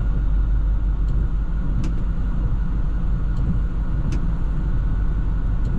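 Plow truck's engine idling with a steady low rumble, with faint clicks at an even pace of about one a second.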